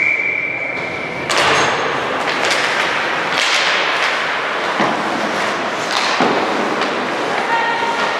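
Basketball gym during a game: a steady high tone ends about a second in, then the echoing noise of the court and crowd with several thuds.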